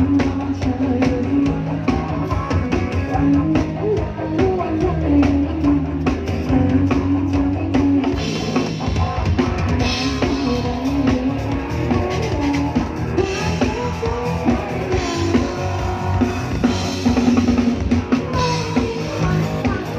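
A live band playing an instrumental passage: drum kit with a steady bass drum, and guitar carrying the melody.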